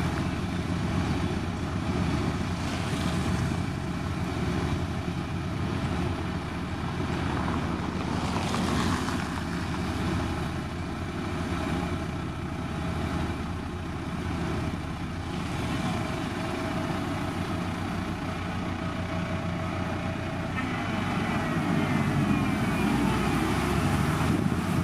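Diesel engine of a SANY STG190C-8S motor grader running steadily, a constant drone under a broad noisy hiss. Faint wavering higher tones come in near the end.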